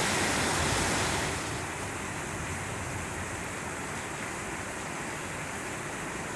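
Heavy rain falling steadily in a storm, a continuous hiss that eases slightly about a second in.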